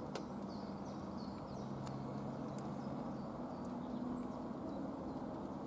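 Steady low outdoor hum of a railway station between trains, with faint bird chirps and a few small clicks.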